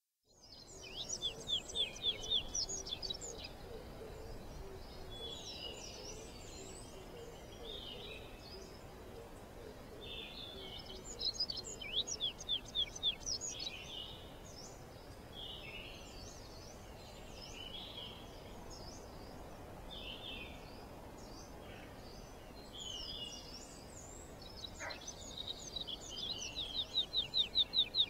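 Songbirds singing: runs of rapid chirping trills, loudest about a second in, around the middle and near the end, with shorter scattered calls in between over a faint steady hiss.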